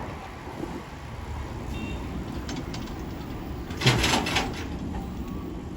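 Road and traffic noise heard from a moving motorbike: a steady low rumble, with a brief loud rushing noise about four seconds in.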